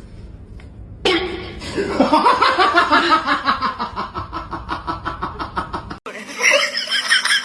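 A person laughing hard in quick repeated bursts, about four a second, for several seconds. It cuts off abruptly about six seconds in.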